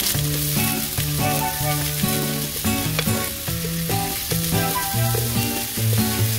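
Spam fried rice sizzling in a frying pan while a metal spoon stirs and scrapes through the rice and diced vegetables, mixing in oyster sauce. Background music with a simple melody plays over it.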